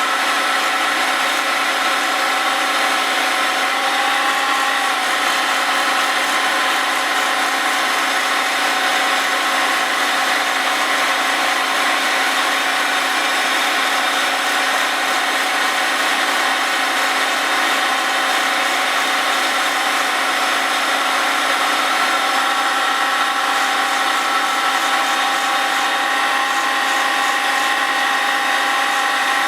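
A grinding wheel spun by a milling machine's spindle grinds the face of a Willys Jeep flywheel that turns slowly on a rotary table. The result is a steady grinding hiss with a few high, even whining tones running through it.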